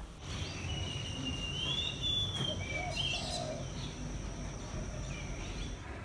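Outdoor ambience with birds calling: a few whistled calls, one rising then falling, and a short chirp about three seconds in, over a steady high-pitched tone and a low background rumble.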